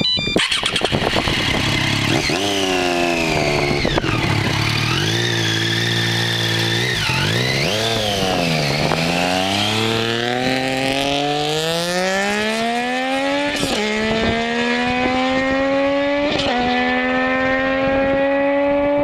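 Triumph Daytona 675's three-cylinder engine through a Jardine aftermarket exhaust, run hard. The engine note drops briefly about eight seconds in, then climbs steadily. Near the end it breaks twice with short dips in pitch as it shifts up.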